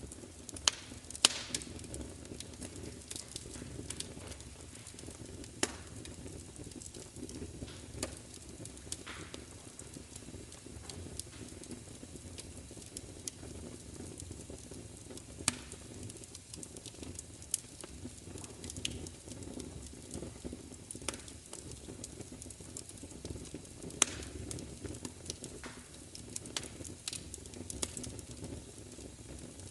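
Wood fire crackling: a steady low rush of burning with irregular sharp pops and crackles scattered throughout, a few standing out louder than the rest.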